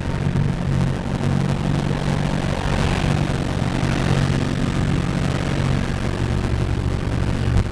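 A steady low mechanical drone with a rushing hiss that swells about three seconds in.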